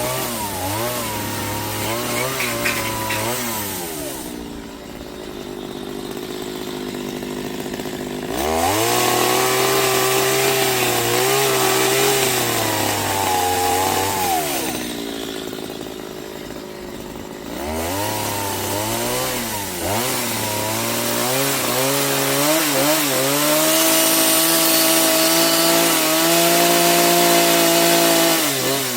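Chainsaw running, its pitch rising and falling as it is throttled up and down while cutting wood. Twice it drops quieter for a few seconds, about four seconds in and again around fifteen seconds, before coming back up to full speed.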